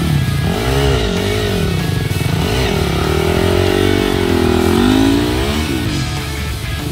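Dirt bike engine revving up and down in repeated bursts, as on a steep loose climb, mixed with heavy rock music with electric guitar.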